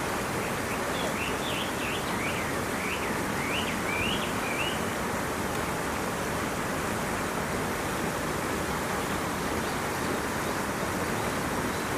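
A steady rushing noise runs throughout. From about a second in to about five seconds, a small bird sings a quick run of high chirps that rise and fall.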